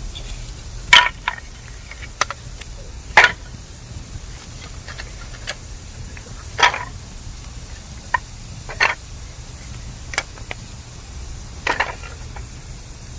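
Bamboo burning in a campfire, crackling with sharp irregular pops, about ten in all, the loudest two in the first few seconds.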